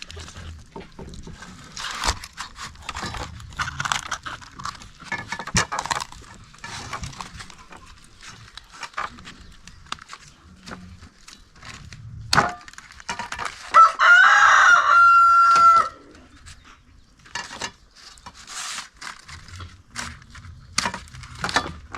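A rooster crowing once, about two-thirds of the way through: a rising call that holds on one note for about two seconds, then stops abruptly. Scattered clicks and knocks are heard around it.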